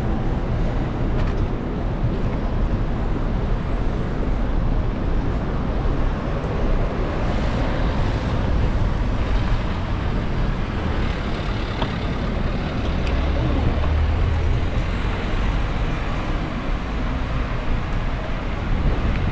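Steady road traffic noise with a deep rumble.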